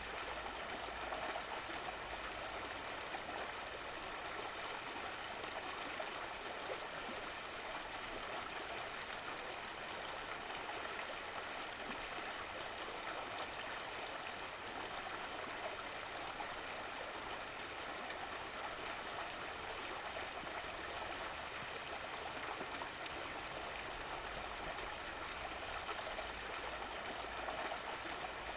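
Running water of a stream flowing steadily, an even rushing and babbling with no breaks.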